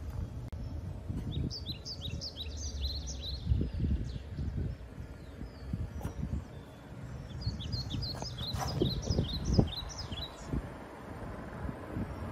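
Small birds chirping in two bouts of quick high chirps, the second about seven seconds in, over a low steady outdoor rumble with a few dull thumps.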